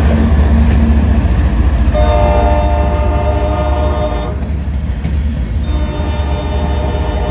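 Diesel freight locomotive rumbling, its air horn sounding a long multi-note blast about two seconds in, then a second blast starting near the end.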